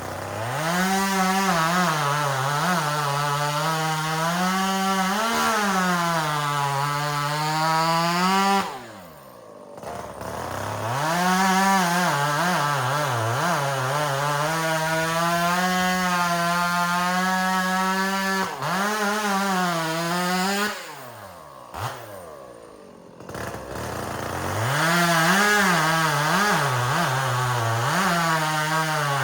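Chainsaw bucking firewood: the engine runs at high revs through the cuts, its pitch wavering and dipping under load, and twice drops back toward idle for a moment between cuts.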